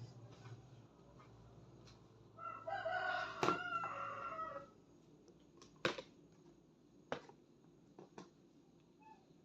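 A rooster crowing once, a single drawn-out crow starting a little over two seconds in and lasting about two seconds. A few sharp clicks or knocks follow, spread over the next few seconds.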